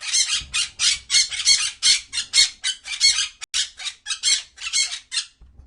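A bird sound effect: a fast series of short, high squawking calls, about four a second, which stop near the end.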